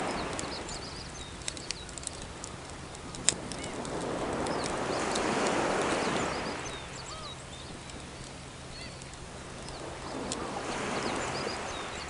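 Sea waves washing onto the shore in slow swells about every five to six seconds, with a wood fire crackling in scattered sharp pops and a few short bird chirps.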